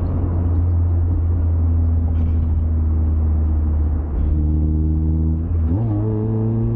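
Mazda MX-5 four-cylinder engine running steadily at cruise over tyre and road noise inside the cabin. A short dip comes about four seconds in, then the engine note rises quickly to higher revs near the end.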